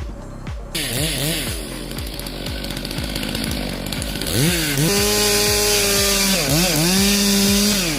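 Chainsaw running at high revs in a cut, its pitch repeatedly dipping under load and recovering, then holding steady at full throttle from about halfway with a short dip a little later. Background music with a steady beat plays underneath.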